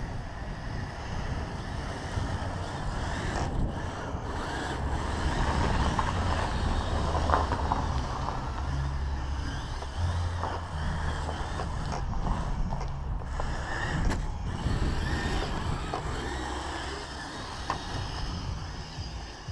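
Radio-controlled Kyosho Blizzard tracked snow groomer running through snow, its brushed electric motor and tracks going steadily, with wind rumbling on the microphone.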